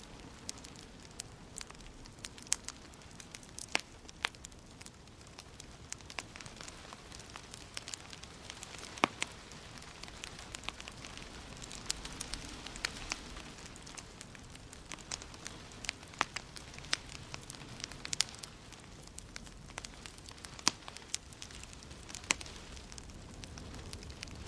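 Wood fire in a fireplace crackling, with frequent sharp, irregular pops over a steady hiss.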